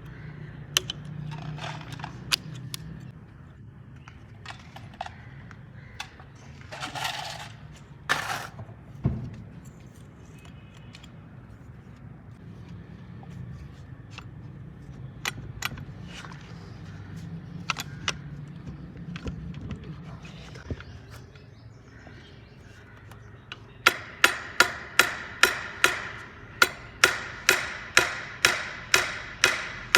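Repair-shop work on a tractor hydraulic lift cylinder: scattered clinks and knocks of tools and parts over a low hum, then near the end a steady run of hammer blows, about two a second.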